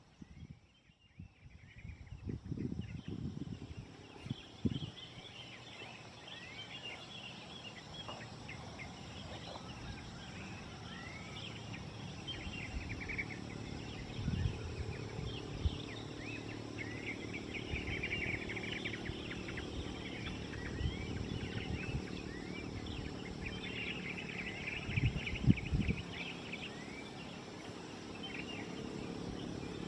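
Several small birds chirping and twittering in quick, overlapping calls. Low gusts of wind buffet the microphone now and then, loudest a few seconds in, around the middle and near the end.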